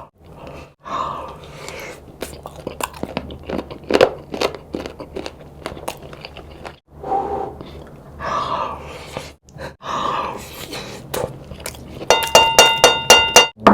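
Close-miked chewing of chicken kottu roti, with crisp crunches and wet mouth sounds in irregular bites. Near the end comes a rapid run of short ringing pulses.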